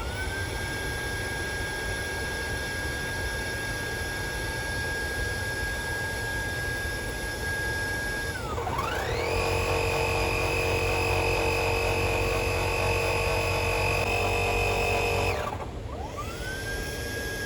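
A small electric motor whining. It spins up to a steady high pitch, winds down about eight seconds in, spins straight back up to a higher, louder pitch, then winds down near the end and starts up once more.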